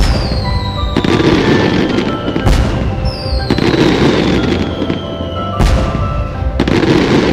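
Fireworks bursting about six times, each bang trailing off into crackle, with falling whistles, over background music.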